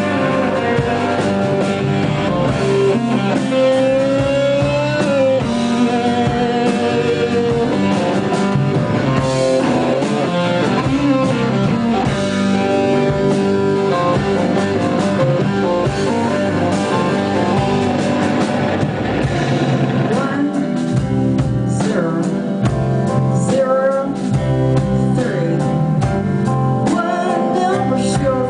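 Live rock band playing a song: electric guitar over bass and a drum kit, loud and continuous.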